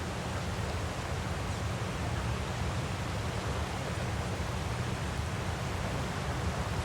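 Steady rushing waterfall sound, even and unbroken, heaviest in its low rumble.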